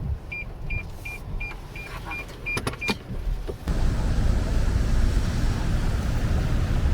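Car's warning chime beeping eight times, about three beeps a second, followed by a few sharp clicks. From just past halfway a loud, steady, low rumbling rush sets in suddenly.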